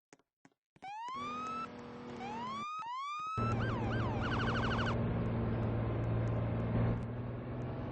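Fire truck's electronic siren sounding three short rising whoops, then two quick falling chirps and a rapid warble for about a second. A steady low engine sound comes in about three seconds in and runs on alone after the siren stops.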